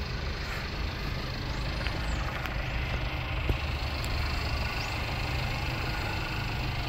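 Mercedes-Benz GLC Coupe idling with a steady low hum, with a few faint high chirps now and then.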